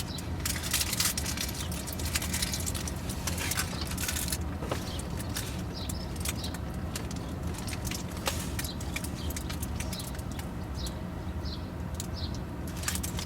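Crackly rustling for the first four seconds or so, then a few short high bird chirps, spaced out, over a steady low hum.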